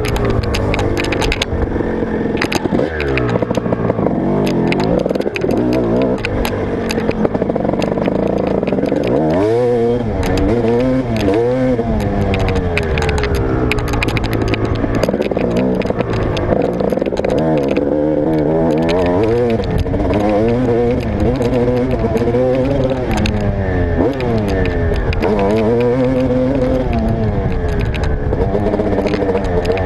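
Motocross dirt bike engine riding hard, its pitch climbing and dropping again and again as the rider works the throttle and gears, with frequent sharp clicks and knocks throughout.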